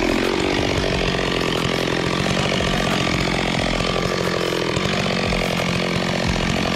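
Chainsaw running and cutting, its engine note dipping and rising again as it works.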